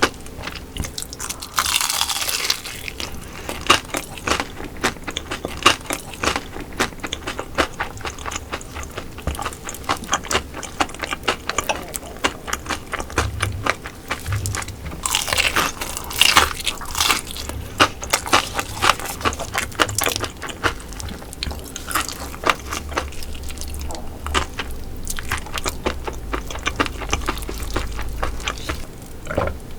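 Close-miked eating of grilled and fried fish: chewing with many small crackling clicks, and louder crunching bites about two seconds in and again around a quarter of the way past the middle.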